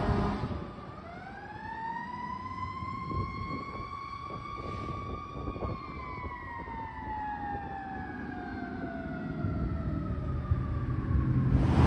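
Fire truck siren sounding one slow wail: the pitch climbs for about five seconds, then falls gradually over the next six, with the truck's engine rumbling underneath. Near the end the loud rush of the truck passing close by takes over.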